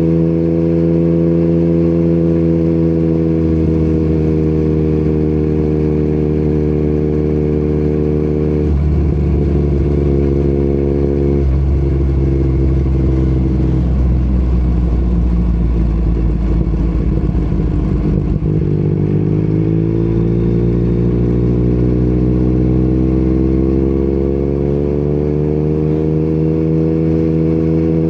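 Yamaha MT-09's inline three-cylinder engine with an Akrapovic exhaust, heard riding along. It holds steady revs at first, falls off to a lower, rougher note about a third of the way in, then pulls up through the revs steadily over the last third.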